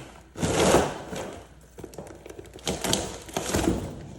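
Belongings being shifted and handled in a storage unit: a loud scraping rustle about half a second in, then a run of knocks and clicks near three seconds in.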